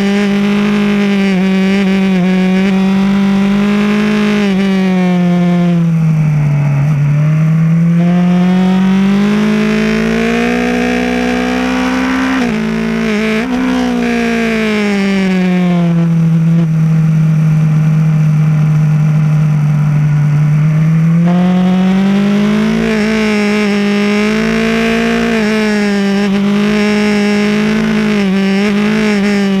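BMW S1000R's inline-four engine heard from onboard, running hard. Its pitch climbs and falls several times as the throttle is opened and closed through the bends, with a quick dip partway through and a longer steady stretch at lower revs.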